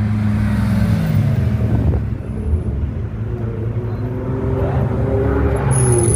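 Car engine running, its pitch dropping about a second or two in and then climbing slowly again.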